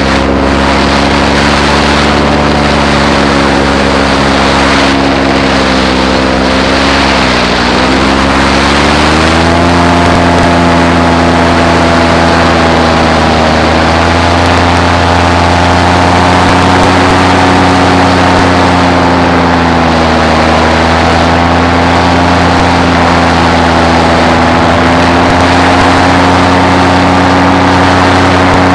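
Paramotor's two-stroke engine and propeller running steadily under power. The pitch sags briefly about seven seconds in, then comes back up and holds slightly higher as the throttle is opened.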